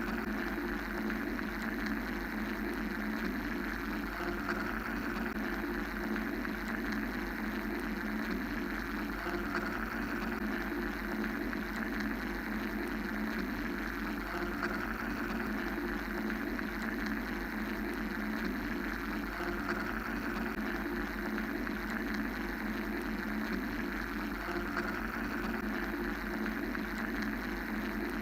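Steady mechanical white-noise drone: a low hum under an even hiss whose upper band slowly swells and fades every few seconds.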